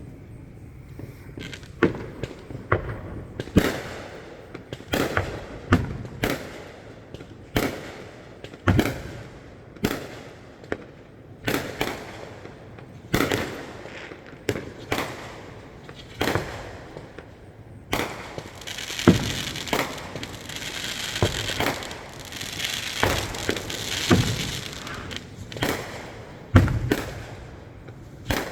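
Fireworks display heard from a distance: a steady run of sharp aerial shell bursts, about one or two a second, each trailing a short echo. Partway through, a stretch of dense crackling fills the gaps between the bangs for several seconds.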